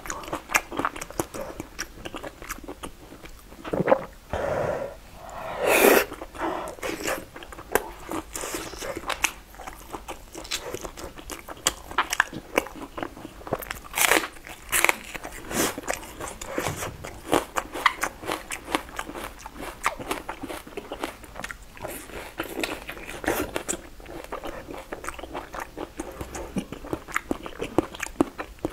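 Close-miked eating of braised pork belly: wet chewing and biting with many quick mouth clicks, and a few louder bursts about four to six seconds in.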